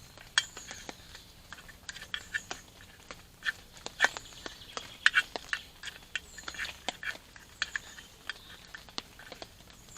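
Spatula stirring tuna and hot sauce in a pan: irregular scrapes and sharp clicks, a few louder knocks against the pan about four and five seconds in.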